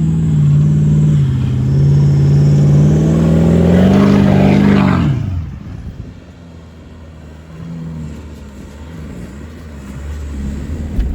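Off-road vehicle engine pulling under load on sand dunes, its pitch climbing for about four seconds. Then the revs fall away sharply about five seconds in, as the throttle comes off, leaving the engine running quieter.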